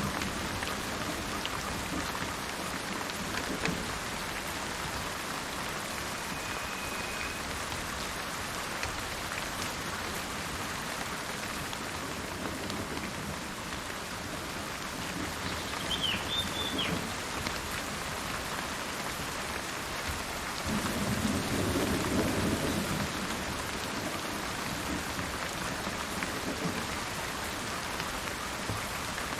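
Steady rain with thunder rumbling, swelling twice, the stronger rumble about two-thirds of the way through. A short bird chirp sounds about halfway through.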